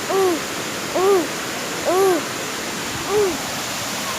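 Steady rush of a waterfall, with a short pitched call that rises and falls repeated about once a second, five times.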